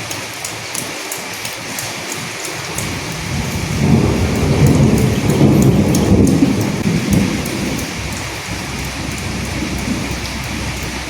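Steady rain falling, with sharp individual drops ticking throughout. A low roll of thunder builds a few seconds in, rumbles for a few seconds and fades away.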